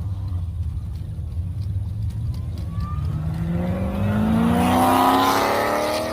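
A car engine rumbling low, then from about three seconds in revving up hard as the car accelerates away, its pitch climbing steadily and getting louder toward the end.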